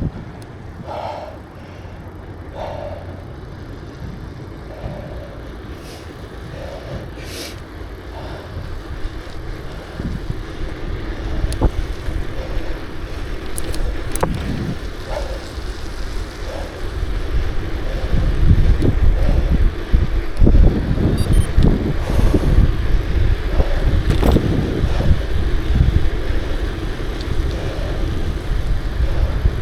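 Wind buffeting the microphone and road noise from a moving bicycle, the low rumble growing stronger in the second half.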